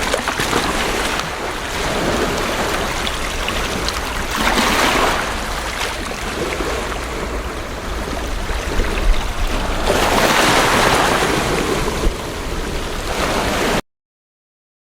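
Ocean surf: waves wash in with two louder surges several seconds apart over a steady hiss, with low wind rumble on the microphone. The sound cuts off abruptly near the end.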